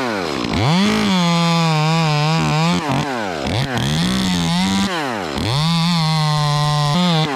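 Two-stroke chainsaw cutting in three bursts: each time the engine revs up to full throttle, holds for about two seconds with its pitch sagging slightly under load, then drops back toward idle.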